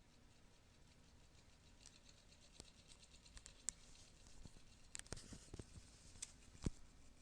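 Near silence broken by scattered faint clicks and light taps, a few sharper ones in the second half.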